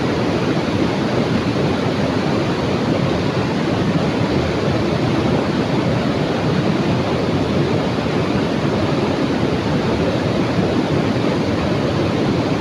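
Loud, steady rush of fast-flowing river water, swollen and murky after rain.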